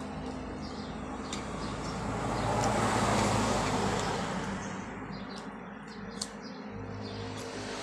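A road vehicle passing, its noise rising and then fading away, with a few short bird chirps near the end.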